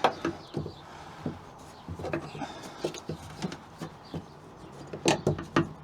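Irregular light knocks, taps and rustles of hands working sound-deadening material into a car's interior, with a small cluster of louder knocks near the end.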